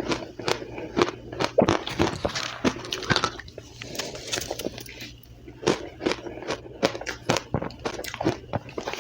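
Close-miked crunching and chewing of soft, powdery ice, with rapid sharp crunches that thin out briefly about halfway through before picking up again.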